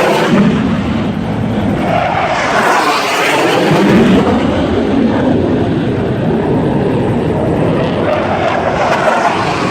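Kfir fighter jets' turbojet engines flying past overhead: a loud, continuous jet roar whose tone sweeps down and back up several times as they pass.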